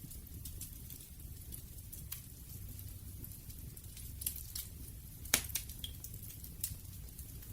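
Wood fire crackling: scattered sharp pops and snaps over a low steady rumble, with the loudest pop about five seconds in.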